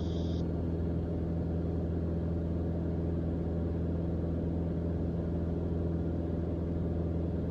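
Cockpit drone of a Mooney M20J's four-cylinder Lycoming IO-360 engine and propeller, running steadily at cruise power, about 68%.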